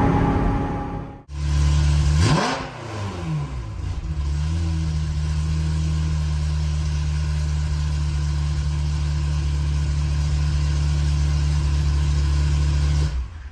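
Ferrari F355's V8 engine and exhaust: running under load, then a sudden break, a quick throttle blip whose pitch rises and falls, settling into a steady low idle that cuts off near the end.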